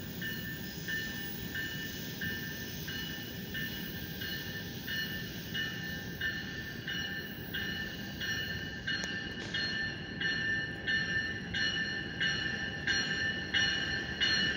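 Metra Electric electric multiple-unit train approaching along the track, a steady rail rumble under its bell ringing about one and a third times a second, growing louder as it nears.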